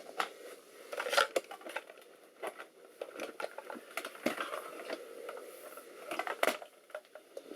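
Hands handling computer parts and cables: irregular clicks, taps and short rustling scrapes.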